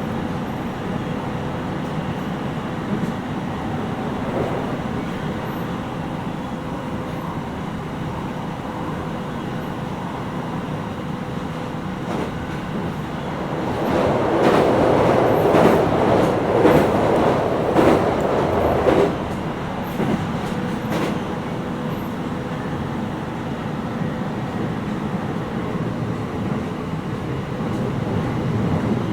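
JR 701 series 5500 subseries electric train running, heard from inside the car: steady wheel and track noise with a faint even tone. Near the middle, for about five seconds, it grows louder with rattling and a run of sharp clacks.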